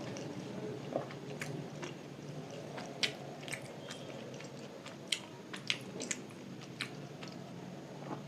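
A person chewing a mouthful of luchi with cabbage curry, with scattered soft mouth clicks and smacks, a few of them sharper than the rest.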